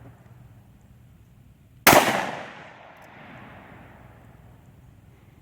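A single gunshot about two seconds in, its report dying away over about a second.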